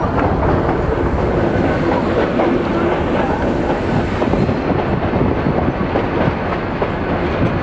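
Nilgiri Mountain Railway coach running along the track: steady rolling noise and rattle, with frequent short clicks from the wheels on the rails, heard from an open coach window.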